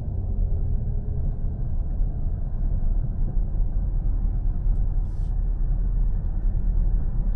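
Steady low rumble of a car's engine and tyres on the road, heard from inside the cabin of a moving taxi.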